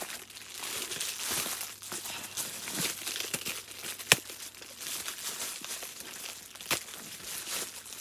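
Packaging crinkling and rustling as a shipping package is handled and opened by hand, with a couple of sharp clicks, one about four seconds in and another near seven seconds.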